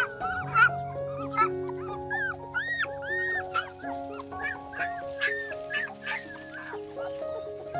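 Young puppies crying: short high-pitched cries that rise and fall, about two a second, over soft background music with long held notes.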